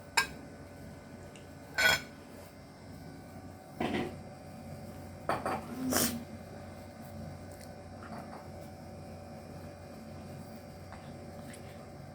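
A few brief clinks and knocks of tableware while eating, spread over the first six seconds, then only a faint steady background.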